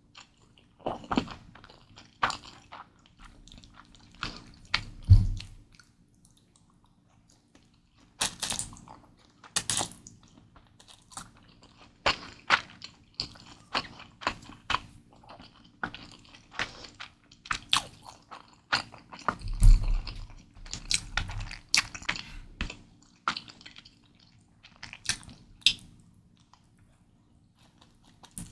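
Close-miked eating sounds of Mi Goreng instant fried noodles: irregular wet chewing and mouth clicks, with a couple of heavier low thumps, one about five seconds in and one about twenty seconds in.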